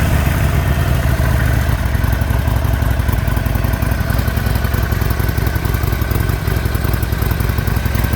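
Stock air-cooled 1200 cc V-twin of a 2019 Harley-Davidson Sportster 48 idling just after starting, its idle easing down slightly about two seconds in and then running steadily; a healthy-sounding motor.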